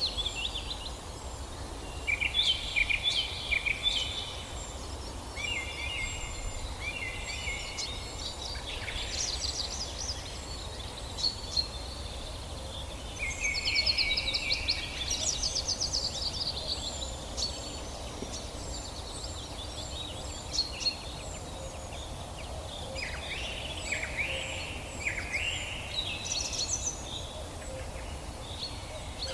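Several songbirds singing and calling together in a forest chorus: quick chirping trills overlap one another, and a thin high note repeats about once a second over a steady low background noise.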